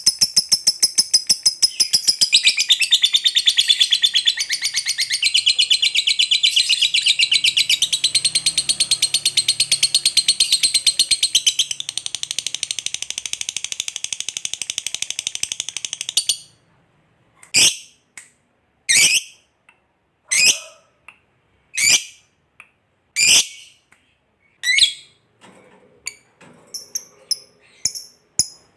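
Lovebird giving its long 'ngekek' chatter: a fast, unbroken run of high chattering notes that stops suddenly about sixteen seconds in. Then come single sharp chirps about every second and a half, and quicker, fainter chirps near the end.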